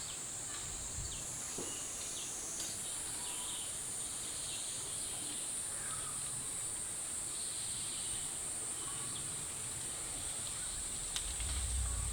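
Outdoor ambience: a steady high-pitched drone of insects, crickets or cicadas, with scattered short bird chirps. A low rumble comes in near the end.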